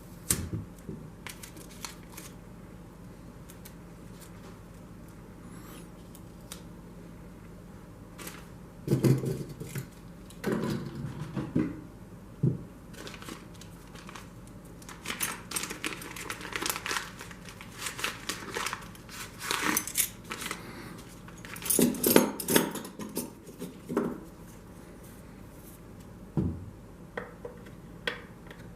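Intermittent clicks, scrapes and rattles of small hard parts and tools being handled, with a few sharper knocks, over a faint steady hum.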